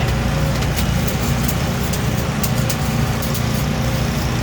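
An engine running at a steady speed, a constant low drone, with scattered sharp ticks over it.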